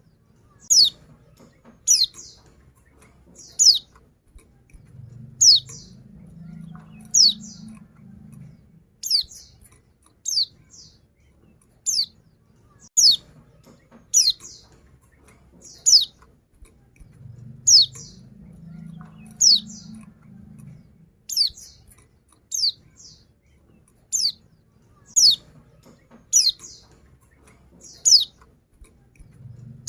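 Female white-eye (pleci) calling: a steady run of short, high chirps, each sweeping quickly downward, about one a second. It is the call of a female pleci used to goad a quiet male into singing.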